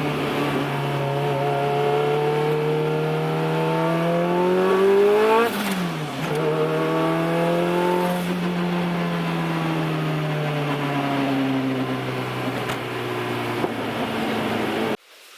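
Turbocharged Honda Civic four-cylinder engine under way: engine pitch climbs steadily for about five seconds, then drops sharply with a short rush of noise as the throttle closes, and runs on at a steady, slowly falling pitch before the sound cuts off suddenly near the end.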